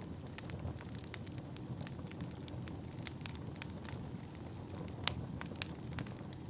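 Wood fire burning in a fireplace, with a steady low rumble and irregular sharp crackles and pops, the loudest pop about five seconds in.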